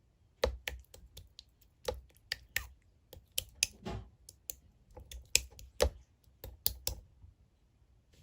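Slime being pressed and squeezed by hand, giving an uneven string of sharp clicks and pops that stop about seven seconds in.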